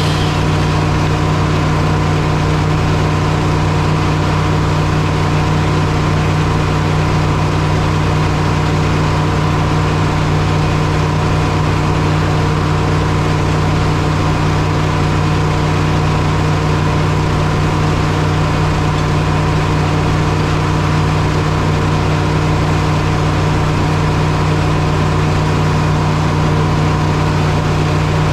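Engine running at a steady, unchanging speed, with a constant low hum and no revving or load changes.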